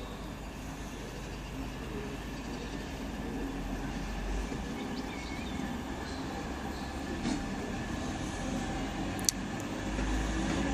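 A pair of coupled Class 66 diesel-electric locomotives running light into the platform, their two-stroke V12 diesel engines giving a steady low drone that slowly grows louder. A single sharp click comes near the end.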